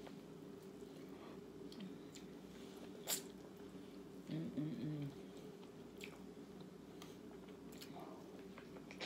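Close-miked eating: chewing with sharp wet mouth clicks and smacks, loudest about three seconds in, over a steady low hum. A brief wavering low pitched sound comes a little past the middle.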